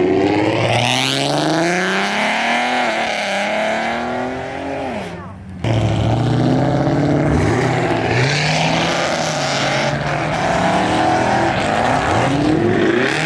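Car engine accelerating, its pitch climbing and then falling away. About halfway through the sound changes abruptly and another car engine revs and pulls away, pitch rising and falling between revs.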